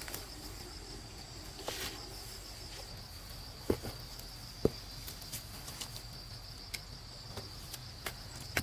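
Insects chirring steadily in a high, even trill, with a couple of sharp knocks near the middle.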